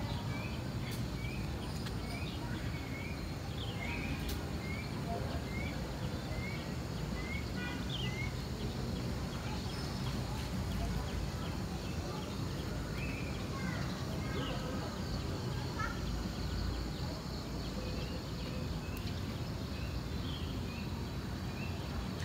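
A bird calling a run of short, rising chirps, about two a second, then calling only now and then, over a steady low background rumble.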